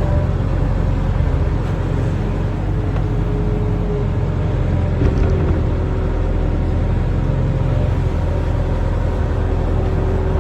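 Barge-mounted excavator's diesel engine running with a steady low rumble, with a faint higher whine that comes and goes several times as the machine works.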